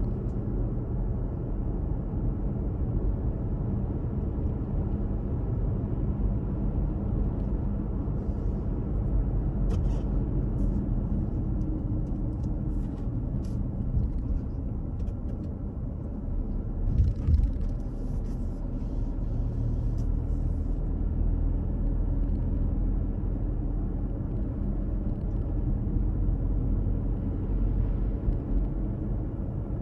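Car driving: a steady low rumble of road and engine noise, with a few light clicks partway through.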